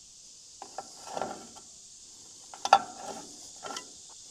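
Metal clicking and scraping of a crescent wrench being worked on a plug to snug it down, in three short clusters.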